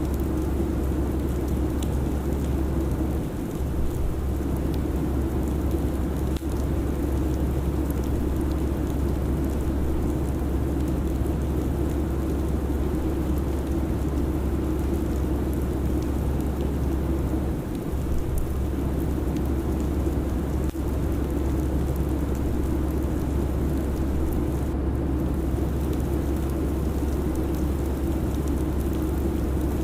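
Steady airliner cabin noise in cruise: a constant low engine drone and rushing air hiss, with no change except two brief slight dips.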